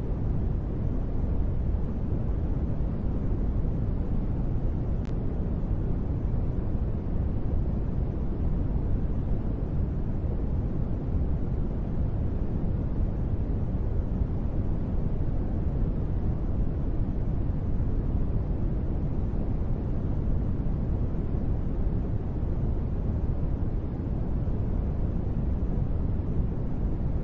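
Steady, deep rushing sleep noise, strongest in the low end and dull above, with no distinct drops or patter; presented as gentle rain.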